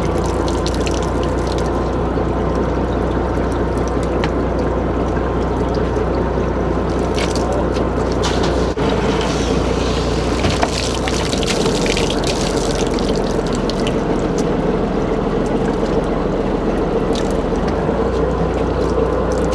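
Fishing boat's machinery running with a steady low hum under continuous splashing and pouring water, with scattered knocks and clatters.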